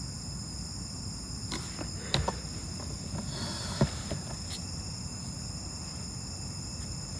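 Night insects, most likely crickets, trilling steadily at a high pitch, with a few short light clicks or taps between about one and a half and four seconds in.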